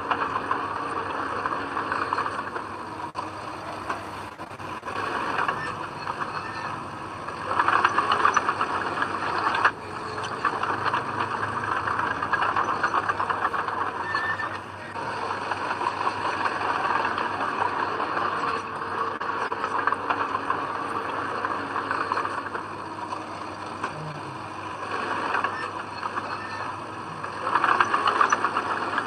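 Heavy diesel earthmoving machinery working, its engine running steadily with louder swells about eight seconds in and again near the end.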